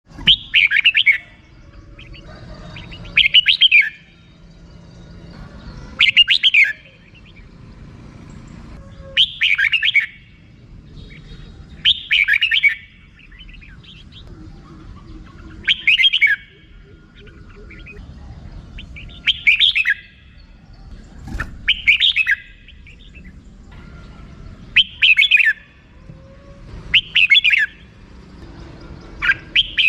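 Red-whiskered bulbul giving its 'rik' call: short chattering bursts of rapid notes, each under a second, repeated about every two to three seconds.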